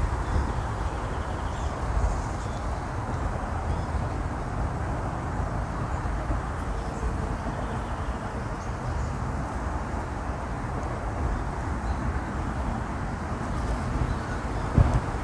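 Steady outdoor background noise with a fluctuating low rumble, and a brief louder bump near the end.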